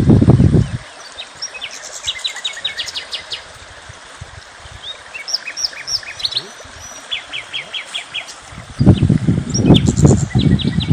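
Small birds chirping and calling outdoors, with quick runs of short high notes repeated throughout. A loud low rumble, the loudest sound, comes in the first second and again over the last two seconds.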